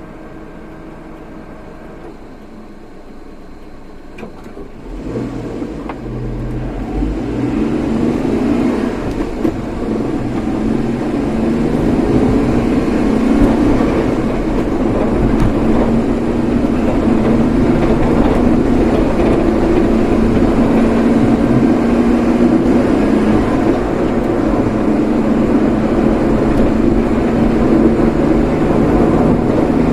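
A car pulling away and picking up speed from about four seconds in. It then runs on steadily with engine and road noise.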